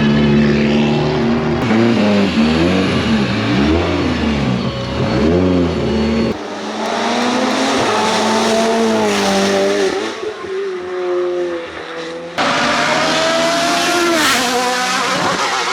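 Hillclimb race car engines revving hard, their pitch climbing and dropping sharply as they shift up and down through the gears. The sound changes abruptly twice, about six and about twelve seconds in, from one car pass to another.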